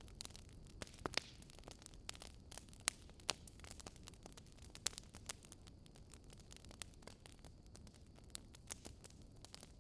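Wood fire crackling: irregular sharp pops and snaps over a low steady hiss, with a few louder pops.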